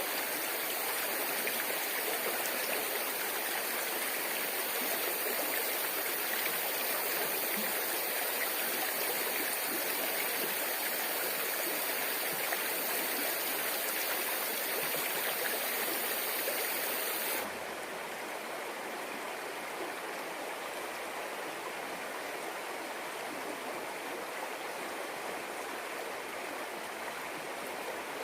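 Stream water flowing with a steady rush. About two-thirds of the way in it drops suddenly to a quieter, softer flow.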